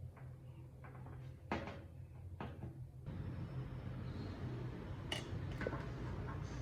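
A few light knocks and clicks of parts being handled, over a steady low hum, with rustling handling noise through the second half.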